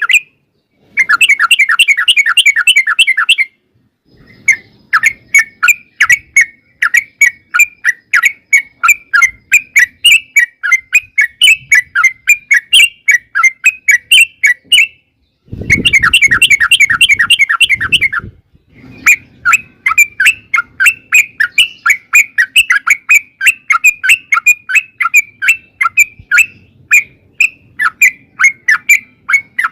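Yellow-vented bulbul (trucukan) calling: two fast bubbling chatters, about a second in and again past the halfway mark, separated by long runs of separate sharp chirps, three or four a second. A lure recording used to draw other trucukan into answering.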